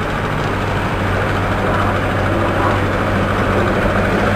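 A heavy engine running steadily with a constant low hum.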